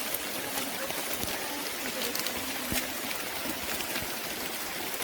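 Rain falling on rainforest foliage: a steady patter with scattered sharper drips.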